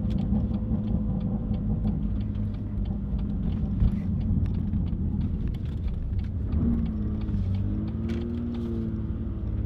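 Steady low engine and road rumble of a car heard from inside the cabin while driving, with some faint clicks and a faint wavering pitched sound in the second half.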